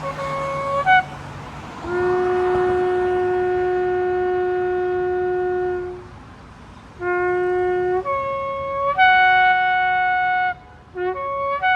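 Shofar (ram's-horn trumpet) being blown. The first note breaks upward, then comes a long steady blast of about four seconds. After a short pause there are blasts that jump from a low note to a higher one, and near the end a few short broken notes.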